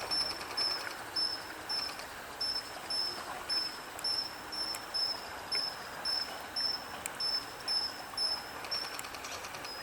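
A steady series of short, high, slightly buzzy chirps, about three a second, with a few brief gaps.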